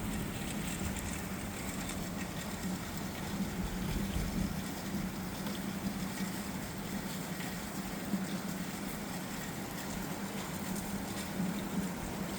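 Steady distant rushing of an approaching thunderstorm, taken for very heavy rain moving in, under a steady low hum.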